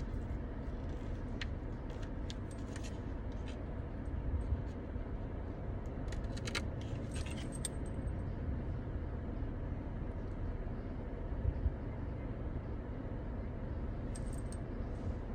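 Steady low rumble of a car, with scattered light metallic clicks and jingles like keys or small objects being handled.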